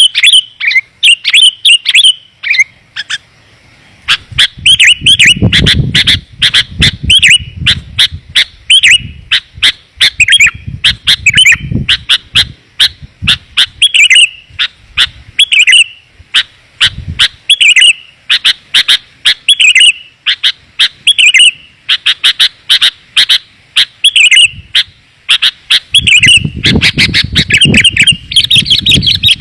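Sooty-headed bulbul (kutilang) calling rapidly, a dense run of short, clear, bubbling chirps repeated over and over: a lure call used to draw wild bulbuls in. A low rumble sits under the calls for a few seconds early on and again near the end.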